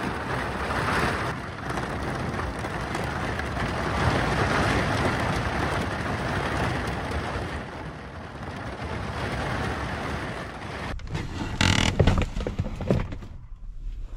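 Heavy rain on a truck camper in a severe storm, a steady hiss of noise. It cuts off suddenly about eleven seconds in, followed by a few short knocks and rustles.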